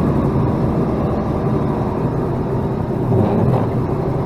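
Freightliner plow truck's engine idling steadily, a low rumble.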